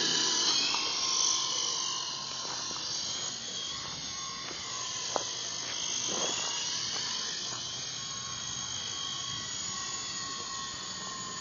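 Toy remote-control helicopter's small electric motor and rotor whirring with a steady high whine, a little louder for the first two seconds. A single short tick sounds about five seconds in.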